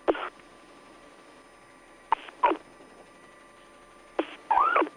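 Short, clipped bursts from a police radio channel, narrow-band and tinny: about five brief blips of broken transmission, coming once at the start, twice about two seconds in, and twice just past four seconds, over a faint steady electronic hum.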